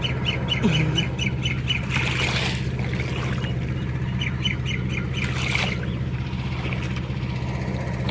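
Mahindra mini tractor's engine running steadily, under two runs of a bird's rapid, repeated high squawks: one early on and one about four and a half seconds in.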